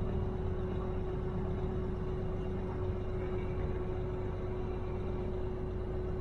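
Steady in-cab truck engine and road noise while driving slowly, with a constant steady hum throughout.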